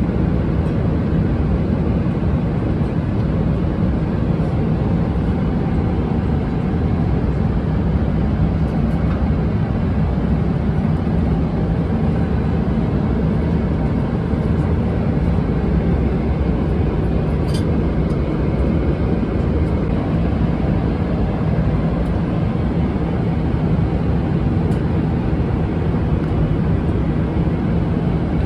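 Steady cabin noise of a Boeing 777-300ER airliner in flight: an even, unchanging rush of engine and airflow noise, heaviest in the low end.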